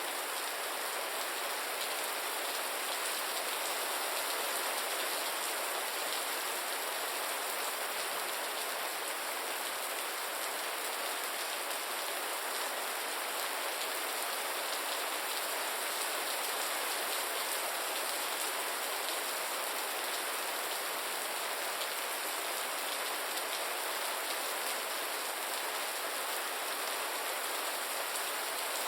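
Gentle rain falling steadily, an even hiss of many small drops with almost no low rumble.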